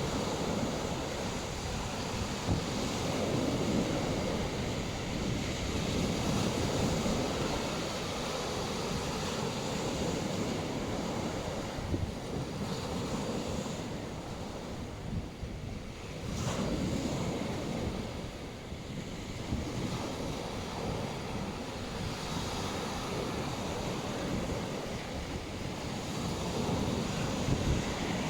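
Waves breaking and washing on a beach, rising and falling in slow swells every few seconds, with wind buffeting the microphone.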